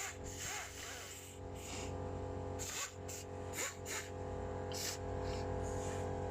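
Pneumatic air ratchet run in a string of short bursts of hissing air as it tightens down the bolts of a newly fitted power steering pump, over a steady low hum.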